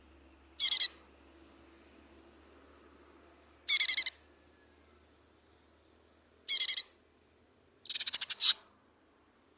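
Cucak ijo mini (small green leafbird) calling in four short, rapid trilled phrases a few seconds apart, the last one the longest.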